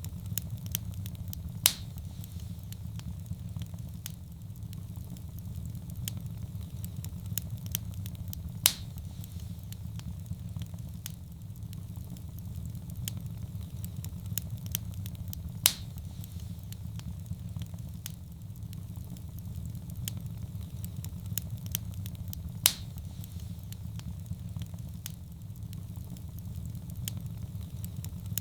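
Wood fire crackling in a fireplace: a steady low rumble of flame with constant small crackles, and a sharp louder pop about every seven seconds.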